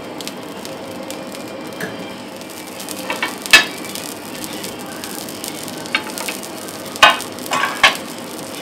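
Sardine fillets on a slice of bread frying in olive oil in a flat pan, with a steady sizzle. A few sharp crackles of spitting oil come through, the loudest a little before halfway and a cluster near the end.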